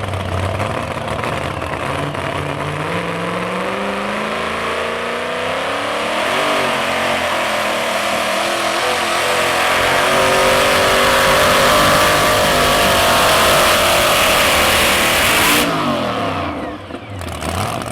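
Modified two-wheel-drive pulling truck making a full-throttle pull: the engine's pitch climbs over the first few seconds and holds at high revs, loud and steady. About fifteen and a half seconds in the throttle is cut and the engine winds down, its pitch falling.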